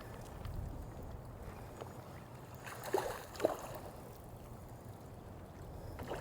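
Low, steady water and wind noise around a fishing boat on a river, with two short sharp knocks about half a second apart roughly halfway through.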